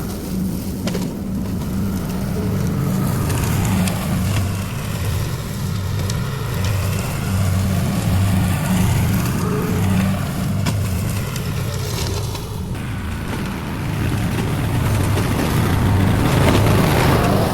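Small gasoline engine of yard equipment running steadily, its note rising and falling slightly as the load changes while cutting overgrown grass.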